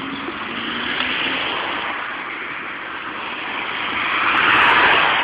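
Road traffic: cars passing along the road in a continuous rush of tyre and engine noise, swelling as a car goes by near the end.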